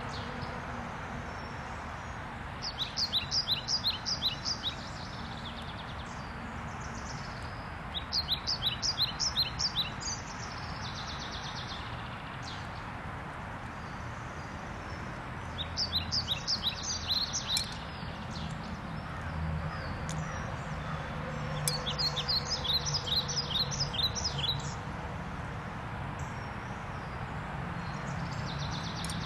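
A songbird singing nearby: bursts of rapid, high chirping notes, each lasting about two seconds, repeated roughly every five to six seconds, over a steady outdoor background hum.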